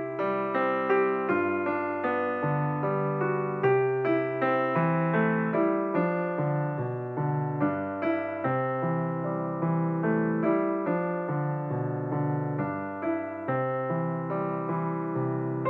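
Background piano music: a steady run of notes, with chords under a melody.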